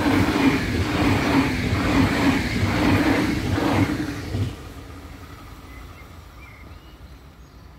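ICE high-speed electric train running past, its wheels clattering on the rails in a regular beat about twice a second. The noise drops sharply about four and a half seconds in as the last car passes, leaving a much quieter fading rumble.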